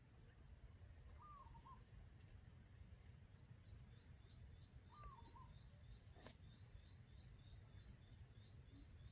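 Two short calls from a decoy quail, about four seconds apart, over a faint low rumble. From about four seconds in, a fast run of thin, high chirps, about four or five a second, runs alongside.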